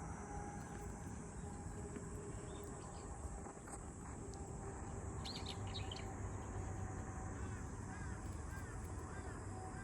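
Steady background ambience with birds chirping: a few short high chirps about five seconds in and a run of short repeated calls near the end.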